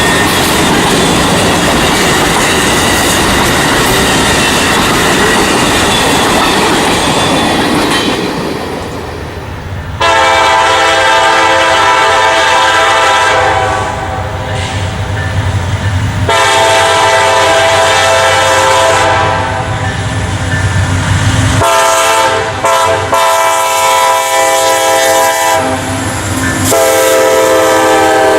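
A freight or passenger train passing close by with its wheels clicking over the rail joints. About ten seconds in, a locomotive air horn sounds a series of long blasts on a multi-note chord, with short breaks between them.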